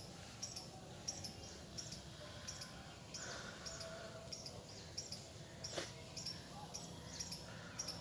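An insect chirping in a steady rhythm, short high chirps about every two-thirds of a second, with a single sharp click about six seconds in.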